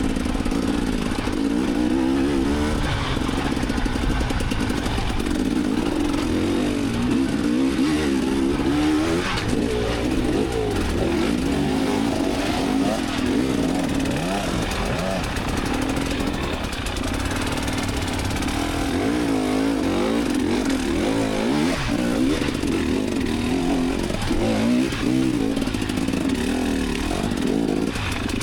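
Enduro dirt bike engine being ridden off-road, revving up and down with the throttle so its pitch keeps rising and falling.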